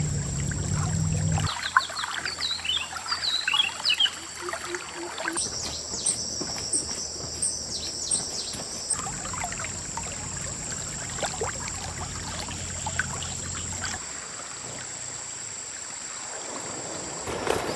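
Small songbirds chirping, then a quick high trill for a few seconds, over scattered clicks and knocks and a steady faint high whine.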